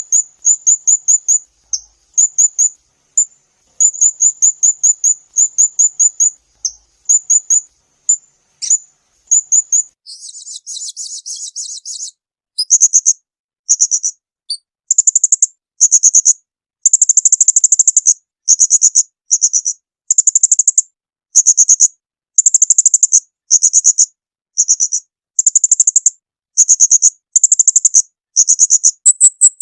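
Small songbird singing loud, high-pitched rapid trills in short repeated phrases. About a third of the way in comes a harsher, buzzy rattle lasting two seconds. After that the trill bursts grow longer and come about once a second.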